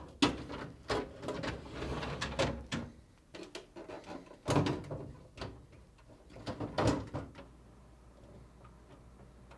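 Refrigerator crisper drawers being fitted onto their rails on roller wheels and pushed closed: rolling and scraping with a series of knocks and clicks, the loudest thuds about four and a half and seven seconds in.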